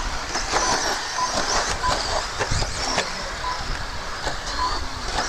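Several RC stadium trucks racing on a dirt track, their motors whining high and gliding up and down in pitch as they speed up and slow down, with scattered clicks and short faint beeps.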